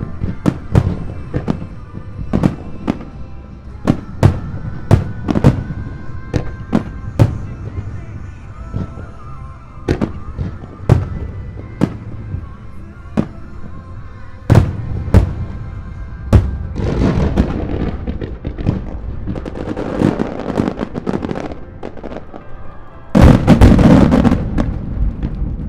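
Fireworks shells bursting in quick succession, one sharp bang after another, about one or two a second. Past halfway, dense crackling sets in. Near the end a loud, continuous barrage of bursts is the loudest part.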